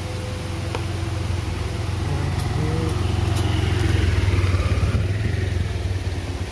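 Strong wind rumbling on the microphone, swelling over a few seconds and easing off again.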